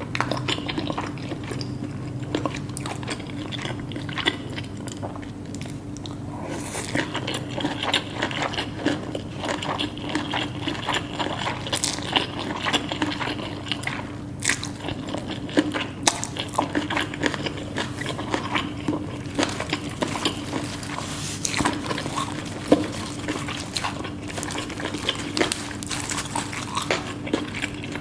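Close-miked eating sounds of Korean food: a person biting, crunching and chewing, with wet, smacking sounds throughout. A faint steady hum runs underneath.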